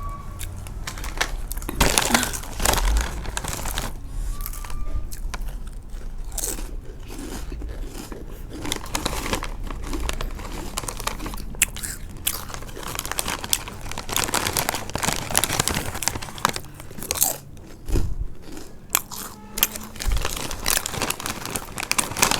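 Close chewing and crunching of crisp snack foods, an irregular run of sharp crunches with a few louder bites.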